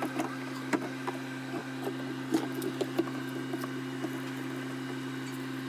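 Scattered light clicks and knocks of drink bottles and juice boxes being handled and set into a mini fridge, over a steady low hum.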